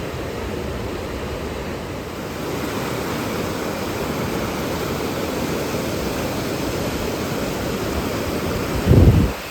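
Steady rushing of a rain-swollen river, a full, even roar of water. Near the end there is one brief low thump.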